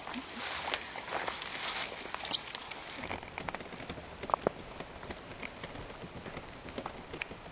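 Footsteps and rustling on a forest floor, with irregular crackles of leaves and twigs. A few short bird chirps come in the first half.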